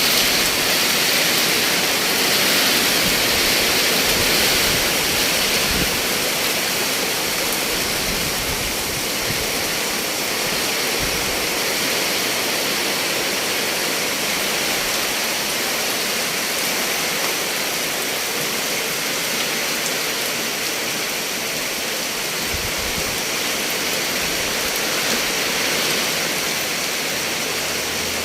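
Heavy rain falling in strong wind: a steady, loud hiss, with a few brief low thumps.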